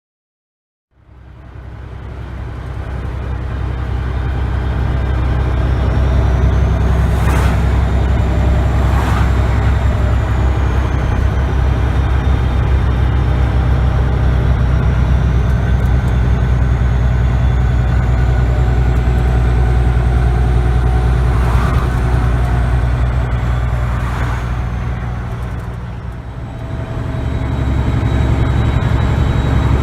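American semi truck's diesel engine running steadily on the road, with a faint high whistle that slowly rises and falls. A few short noises come in two pairs, and the engine eases off briefly near the end, then picks up again.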